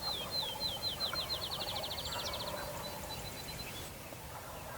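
A songbird sings a series of falling whistled notes that speed up into a fast trill, then trails off in fainter notes. Beneath it, a wild turkey gobbles in the distance.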